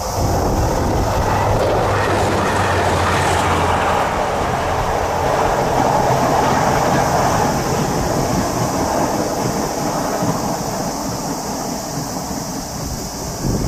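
A train crossing a steel railway bridge: steady wheel and bridge noise, loudest about halfway through and easing off near the end.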